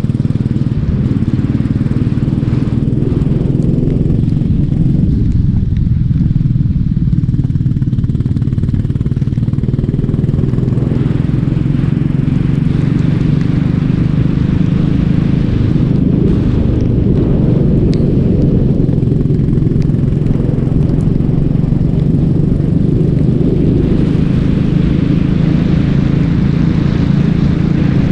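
Racing kart's engine running loud and continuously, its note dropping and climbing again a few times as the throttle comes off and goes back on.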